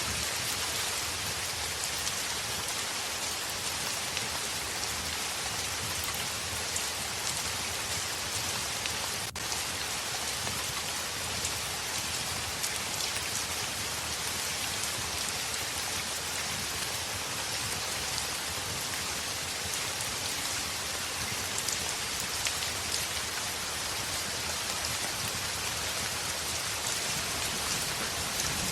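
Heavy rain falling steadily on a window: a dense, even hiss with scattered drop ticks.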